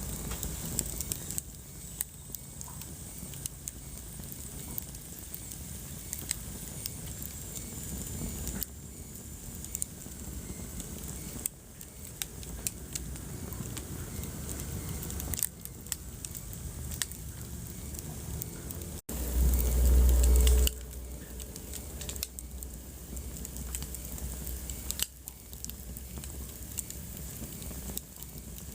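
Wood fire burning in a fireplace, crackling with many small sharp pops over a steady hiss. About two-thirds of the way through, a loud low rumble lasts a second or two.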